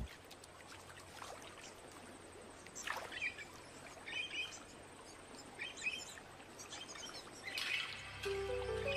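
Scattered short bird chirps, four or five brief calls, over faint outdoor ambience. Soft background music with sustained notes comes in near the end.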